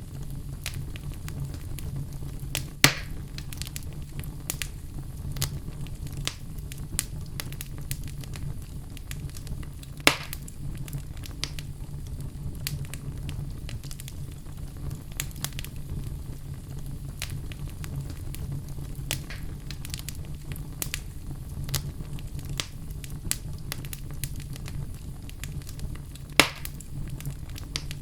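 Wood logs burning in a fireplace: a steady low rumble of flame with constant small crackles, and three loud sharp pops of the wood, about 3, 10 and 26 seconds in.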